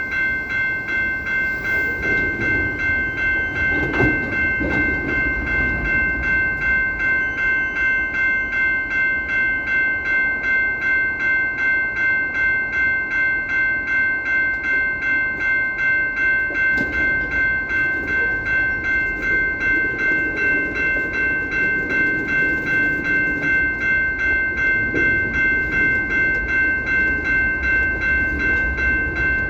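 A train, with a steady high ringing made of several tones that pulses evenly about two to three times a second throughout, over a rumble that swells now and then.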